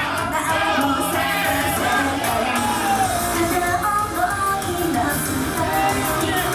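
A pop song performed live by a girl idol group: female voices singing over loud amplified music in a hall.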